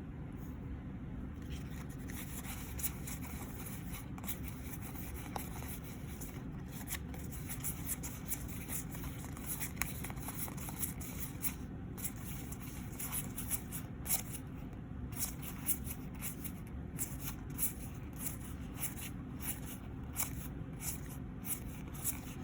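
Trading cards being handled and slid against one another, making short irregular rustles and clicks over a steady low hum, the rustles coming more often in the second half.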